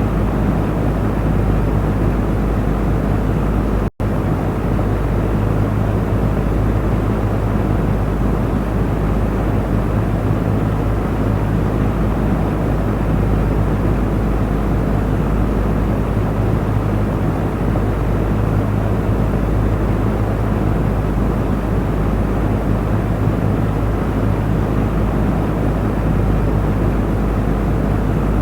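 Electric fan running steadily: an even whooshing of air with a low motor hum underneath. The sound drops out for a split second about four seconds in, then carries on unchanged.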